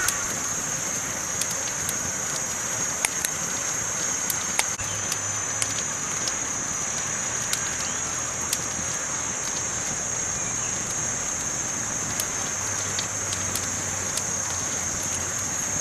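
Campfire burning: scattered sharp crackles and pops over a steady high hiss.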